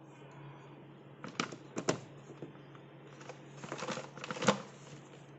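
Hands handling packaging: two sharp taps about a second and a half in, then a cluster of clicks and rustling around four seconds in, the loudest near the end of it, over a steady low hum.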